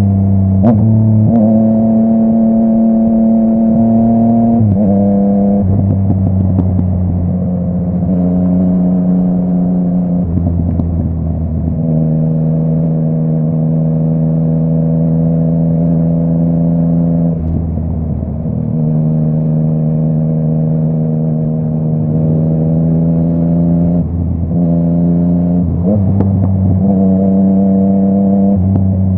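Yamaha MT-09 inline three-cylinder engine through a full Akrapovic exhaust, riding along at a steady throttle with a change of gear every few seconds, the engine note stepping to a new pitch at each shift. A few short pops come through now and then.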